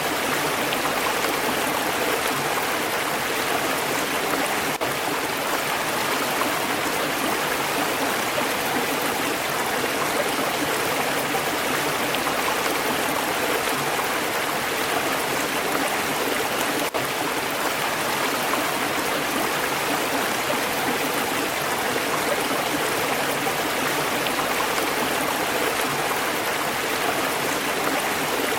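Stream water flowing and splashing steadily over rocks, a continuous rushing babble.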